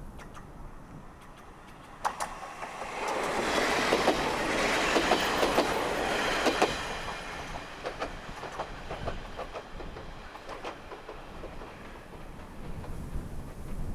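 Diesel railcar passing, its wheels clattering over rail joints: the sound begins suddenly about two seconds in, is loudest for several seconds, then fades with scattered clicks. Wind buffets the microphone near the end.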